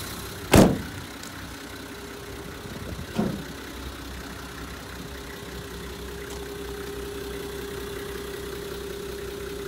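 Nissan TD42 4.2-litre straight-six diesel engine idling steadily. A loud sharp thump comes about half a second in and a smaller one about three seconds in.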